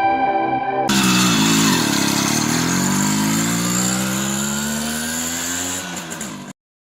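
Background music ends about a second in. Then a motorcycle engine revs up: its pitch dips briefly, then climbs steadily for several seconds as it accelerates, and it cuts off suddenly near the end.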